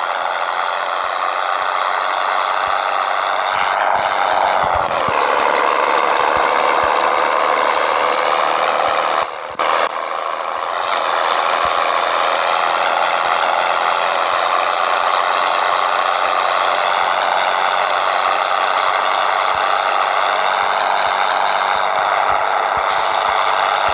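Scania 113 truck's 11-litre six-cylinder diesel engine running under load. Its pitch falls about four seconds in, it drops out briefly about nine seconds in, and it then runs steadily again.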